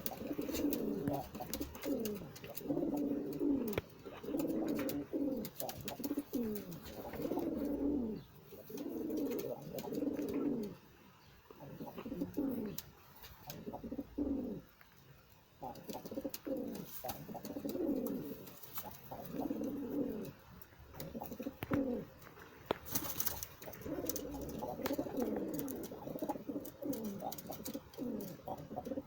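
Several domestic pigeons cooing, their calls overlapping and each sliding down in pitch, with short lulls and scattered sharp clicks.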